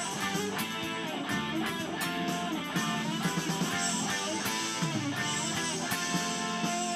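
Instrumental music led by electric guitar playing notes over a steady beat.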